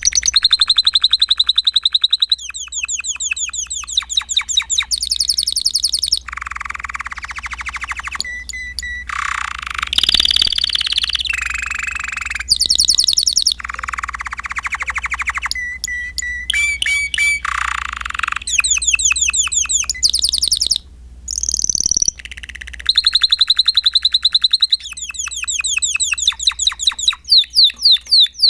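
Spanish Timbrado canary singing a long, continuous song of rapid trills. High, fast trill phrases alternate with lower, denser rolls and a few short held whistles, with one brief pause a little past two-thirds of the way through.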